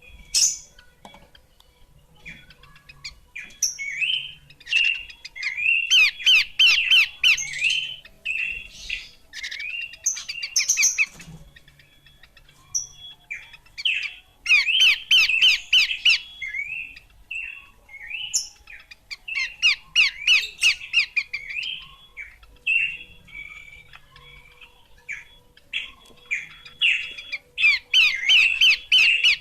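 Horsfield's babbler (pelanduk semak) singing: a run of short whistled notes, broken four times by a fast burst of rapid chattering notes.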